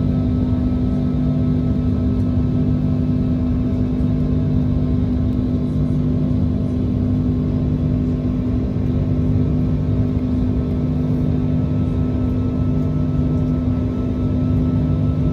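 Steady jet engine and airflow drone heard inside the cabin of an Airbus A330-300 with Rolls-Royce Trent 700 engines: a low rumble with a constant hum.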